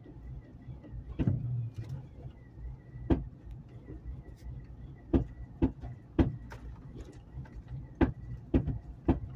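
Truck engine running with sharp, irregularly spaced pops, about eight in several seconds. The popping comes with a loss of power that the owner is recording for his mechanic.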